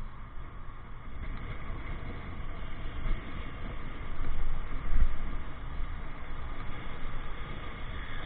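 Riding noise from a motorcycle in traffic: a steady low rumble of engine and road, getting louder for a moment about four to five seconds in.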